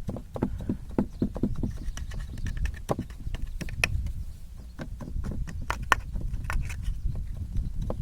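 Irregular taps and knocks as shredded kunafa dough is pressed down into a pan with a plate, over a steady low rumble.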